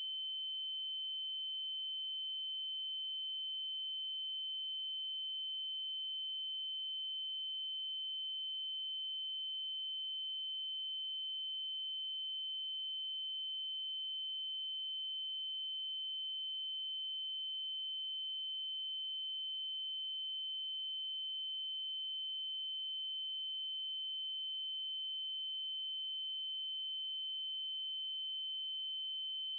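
Steady synthesized 3072 Hz triangle-wave test tone, one unbroken high pitch with faint overtones above it.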